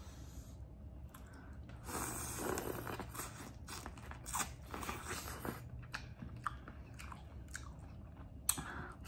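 Biting kernels off a sauce-coated piece of boiled corn on the cob and chewing. A dense run of crunchy bites starts about two seconds in, followed by slower chewing with scattered sharp clicks.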